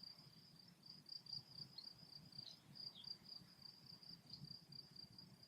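Faint insect chirping: a steady, high-pitched trill of rapid pulses.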